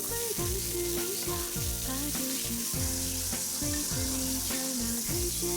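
Food frying in hot oil, a steady sizzle as it is stir-fried, under background music.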